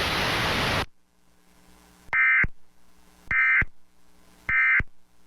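Emergency Alert System end-of-message: after a brief hiss of static, three short, shrill digital data bursts about a second apart. These are the SAME 'NNNN' codes that mark the end of a broadcast weather warning.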